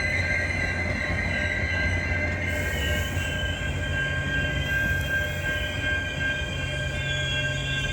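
Metra commuter train rolling through the station, with a steady high-pitched metallic squeal from its wheels over a low rumble.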